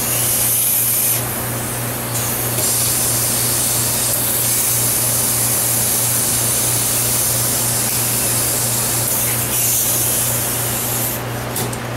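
Compressed air hissing steadily from an air chuck held on a lawn mower tire's valve stem, a chuck that does not fit the valve well. The hiss shifts in strength a few times as the chuck is pressed and repositioned.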